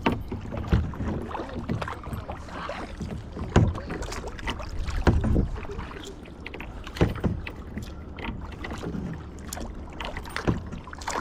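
Kayak paddle strokes in the water: irregular splashes every second or two over a steady water noise.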